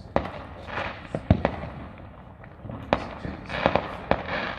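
Fireworks going off: a string of sharp bangs at uneven intervals, some in quick succession, mixed with short bursts of crackle.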